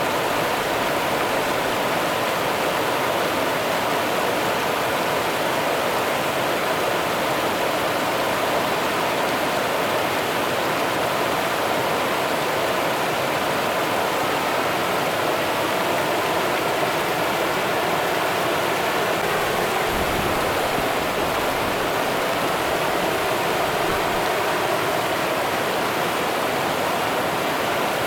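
Running water of the Rio Grande, flowing steadily without a break.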